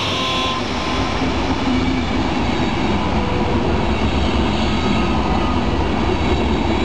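Passenger train coaches rolling past: a steady rush of wheel and rail noise.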